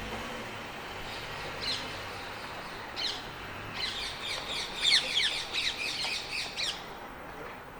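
A bird calling: a couple of single short falling calls, then about three seconds of rapid repeated falling calls, over faint steady outdoor background noise.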